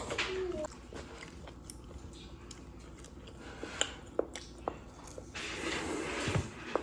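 Close-up eating sounds: chewing and biting with scattered small wet clicks, denser for about a second near the end.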